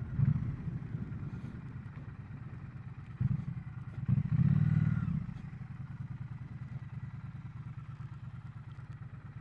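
Triumph Bonneville T100 parallel-twin engine running at low speed with an even pulse. It swells louder briefly at the start, about a third of the way in, and again around the middle, then runs steadily and more quietly at low revs.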